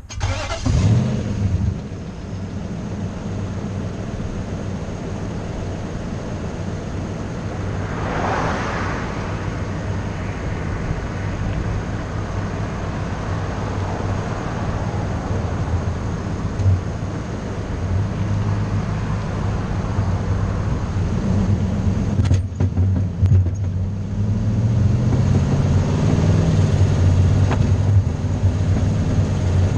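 A vehicle's engine starts up and idles steadily, then revs and rises in pitch near the end as the vehicle pulls away. Another vehicle passes about eight seconds in.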